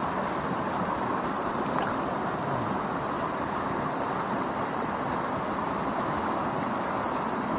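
Waterfall and stream water rushing in a steady, unbroken roar.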